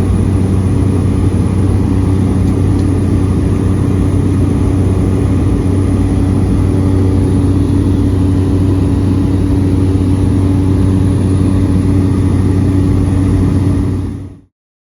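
Steady cabin drone of a Cessna 208B Grand Caravan EX's Pratt & Whitney PT6A-140 turboprop engine and propeller, with a strong low hum. It cuts off abruptly shortly before the end.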